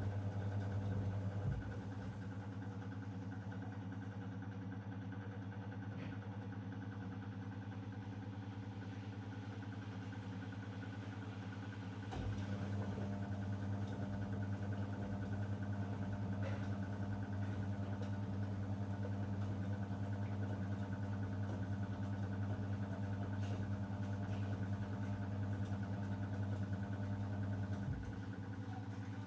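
Zanussi DL22 washing machine running on a 90 °C boil wash: a steady mechanical hum that steps louder about twelve seconds in and drops back near the end, with a few faint ticks.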